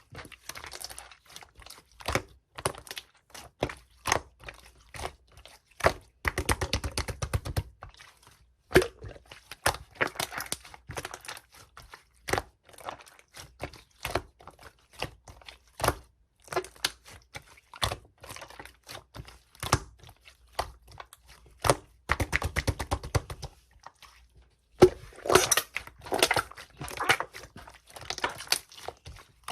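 Coral-coloured slime being squished and poked by hand, giving sharp popping clicks and runs of dense crackling, the densest near the end.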